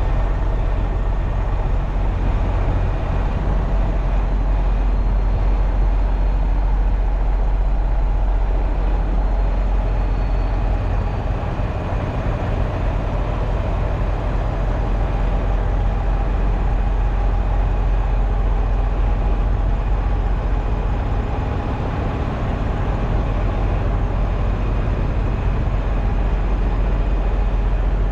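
Semi truck running steadily: a continuous low diesel drone with an even rush of noise over it.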